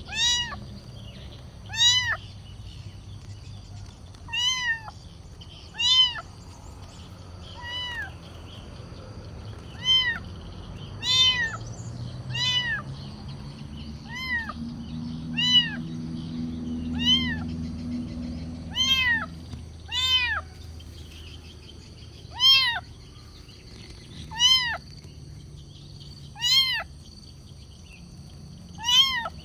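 Kitten meowing over and over to be fed: short, high meows that rise and fall in pitch, one every second and a half to two seconds.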